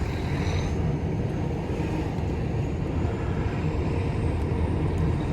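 Steady low drone of a semi-truck's diesel engine, heard from inside the cab as the truck moves along.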